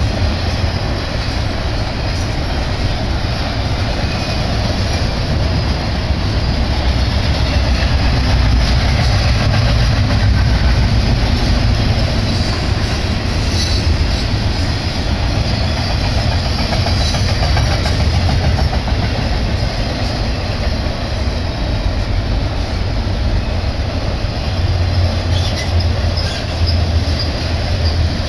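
Fast double-stack intermodal freight train's container cars rolling past close by: a loud, steady rumble of steel wheels on rail that goes on without a break.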